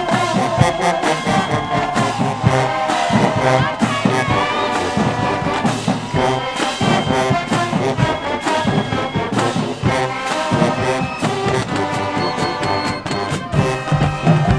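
High school marching band playing its field show: full brass section with trombones and trumpets sustaining chords over drumline hits.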